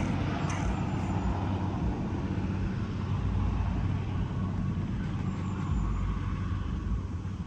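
Police helicopter flying overhead: a steady low drone of rotor and engine that eases slightly near the end.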